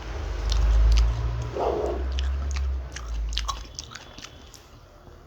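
Close-up biting and chewing of samosa and green chilli: scattered crunches and mouth clicks. A loud low rumble runs under the first three and a half seconds, then fades.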